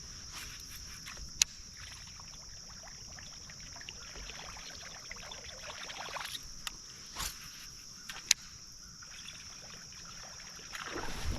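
Steady high-pitched insect chorus over the faint trickle of creek water, with two sharp clicks about seven seconds apart, the first about a second and a half in.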